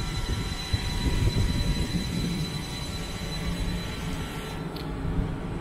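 Northern Class 333 electric multiple unit running slowly along the platform: a low rumble with a steady high whine that fades out near the end.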